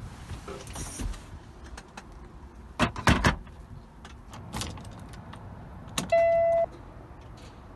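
Objects being handled with scattered clicks and knocks, loudest in a short cluster about three seconds in, then one short electronic beep lasting about half a second, about six seconds in.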